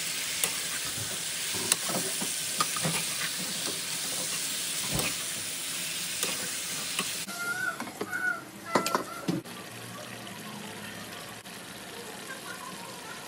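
Onions, tomato and chicken sizzling in a frying pan, stirred with a metal slotted spoon that scrapes and clicks against the pan. About seven seconds in the sizzle stops abruptly. A few clinks follow, then quieter sound.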